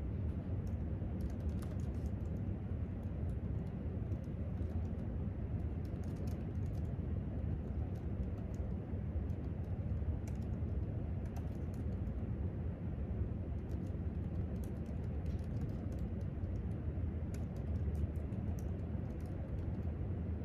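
Typing on a laptop keyboard in short, scattered bursts of light clicks, over a steady low room hum.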